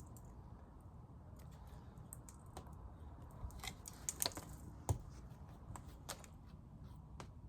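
Scattered light clicks and taps from beehive frames being handled and moved in the hive box, with a couple of sharper knocks a little past the middle.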